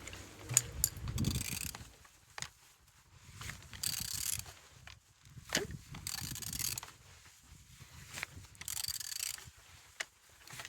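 A BMW M47 D20 2.0-litre four-cylinder diesel engine being turned over by hand with a wrench on the crankshaft: bursts of hissing air come about every two to three seconds, with sharp metal clicks between them. It turns freely, the sign that the engine is not seized.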